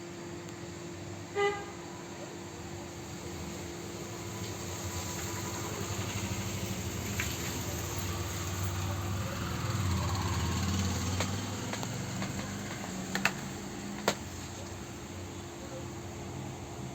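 Background street traffic: a steady low rumble that swells as a vehicle passes about ten seconds in. A short horn toot comes about a second and a half in, and two sharp clicks come near the end.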